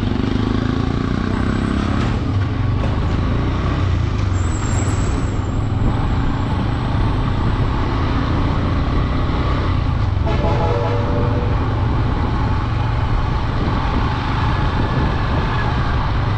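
Honda Dream 110's single-cylinder 110cc four-stroke engine running steadily under way, with wind and road noise around it. A brief horn sounds about ten seconds in.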